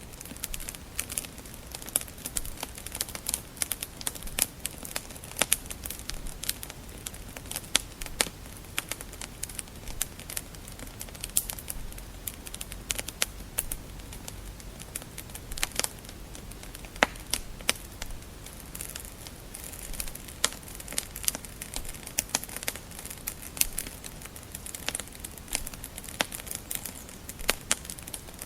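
Wood fire crackling, with many irregular sharp pops and snaps over a soft steady hiss.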